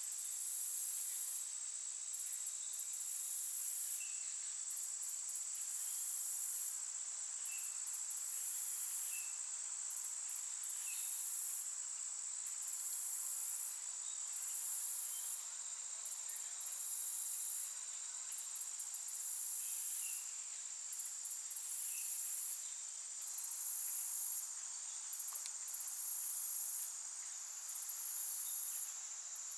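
Insects calling outdoors: a very high-pitched buzzing trill that comes in bursts about a second long, roughly every two seconds, over a steady high-pitched insect drone.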